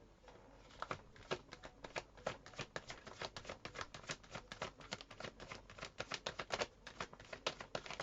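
Tarot cards being shuffled by hand: a quick, continuous run of small card clicks and flicks, starting about a second in.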